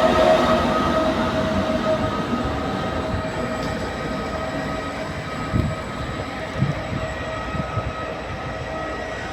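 Train moving along the station track, its sound dying away, with a steady whine that fades. In the second half come three wheel clacks about a second apart.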